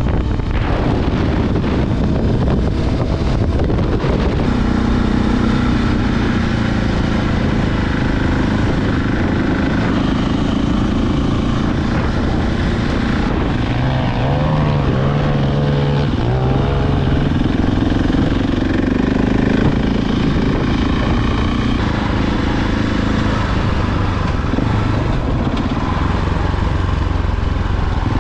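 2022 KTM 690 Enduro R's single-cylinder engine running steadily under way, its pitch rising and falling a few times about halfway through as the revs change.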